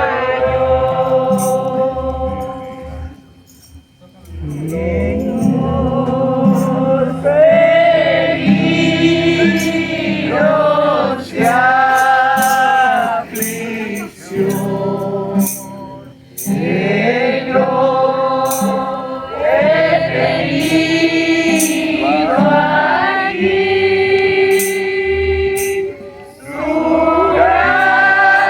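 Group worship singing of a gospel hymn with instrumental backing, in long held phrases broken by short pauses.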